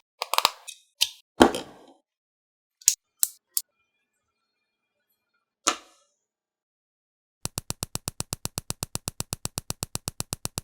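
Plastic LEGO pieces knocking and clicking together in a handful of sharp clacks, then a few single clicks. About halfway through begins a fast, perfectly even run of identical clicks, about ten a second.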